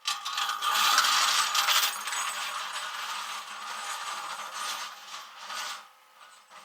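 Dense, irregular mechanical rattling and clattering that starts suddenly, is loudest over the first two seconds, then tapers off and stops about six seconds in.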